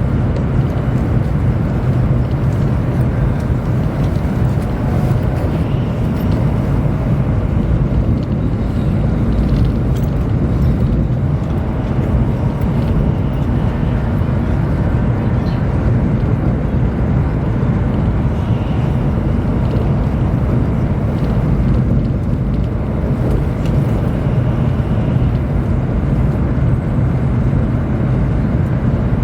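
Chinese high-speed train heard from inside a passenger car, running steadily: a continuous low rumble and rush of the train at speed.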